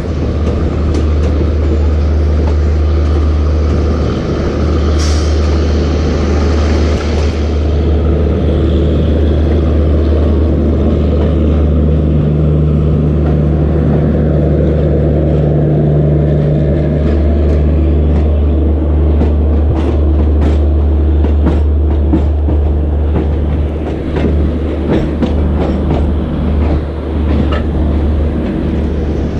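EMU electric suburban train running on the rails, a loud steady low rumble. Through the second half, a run of clicks and knocks from the wheels over the track.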